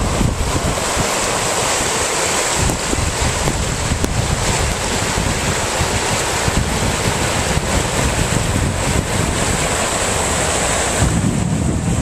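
Steady rush of floodwater pouring across a road, with wind buffeting the microphone in low gusts.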